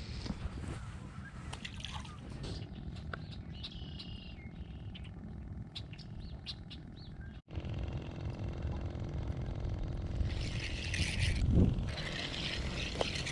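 Outdoor ambience: a steady low rumble with a few short bird chirps about four seconds in, and a brief hiss near the end.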